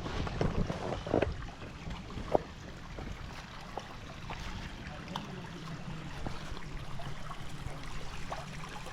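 Shallow creek water splashing and trickling, with scattered short knocks and clicks.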